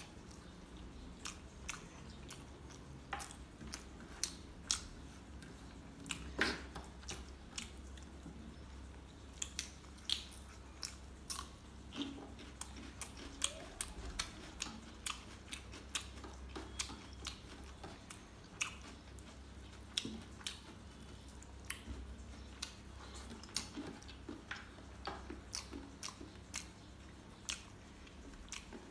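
Close-up eating sounds of a person chewing chicken and rice with gravy: wet chewing with frequent short, sharp mouth clicks at an irregular pace.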